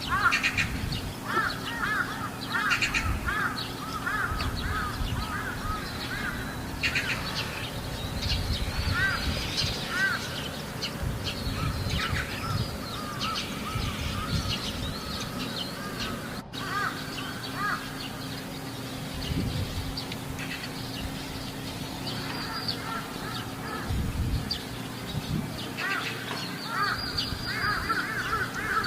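Crows cawing over and over, several calls overlapping, thinning out about midway and picking up again near the end, over a steady low hum.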